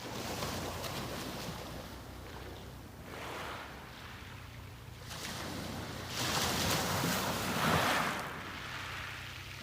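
Sea waves breaking and washing up a beach, the surf swelling and ebbing, with a quieter lull in the middle and the loudest surges coming in near the end.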